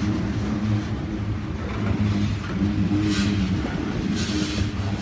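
A freight train rolling past behind diesel locomotives, with a steady low engine drone and two brief bursts of hiss about three and four and a half seconds in.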